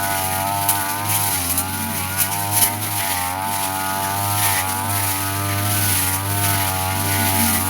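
Petrol brush cutter running at high speed with its metal blade spinning. The engine pitch sags briefly now and then as the blade takes load in the grass, with a few sharp ticks.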